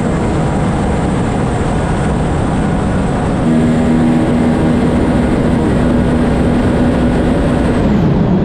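Racing jet ski engines running flat out in a drag race: a loud, steady high-revving drone over a rushing wash of noise. The drone grows louder about three and a half seconds in and drops in pitch near the end.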